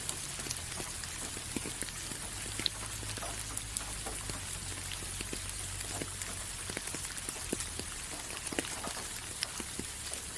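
Steady rain falling, a constant hiss with many separate drops ticking irregularly on a surface.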